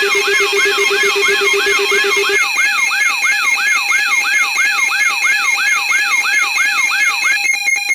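Loud layered electronic alarm tones: a siren-like sweep falling in pitch about three times a second over steady beeping tones. A lower pulsing tone drops out about two seconds in, and near the end the sound switches to fast on-off beeping.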